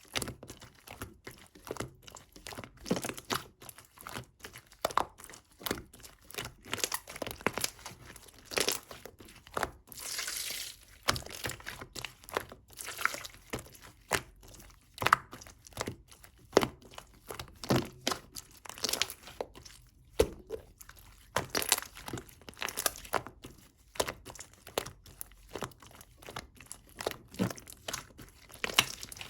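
Close-up crinkling and crunching, a long irregular string of short crackles and clicks, with a brief hiss about ten seconds in.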